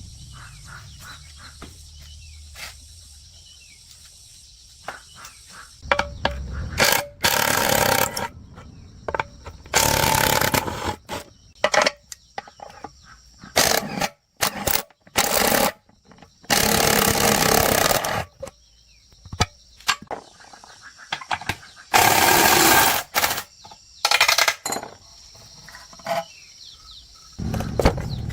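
Repeated bursts of a power tool, each lasting a second or two, with insects chirping steadily in the background.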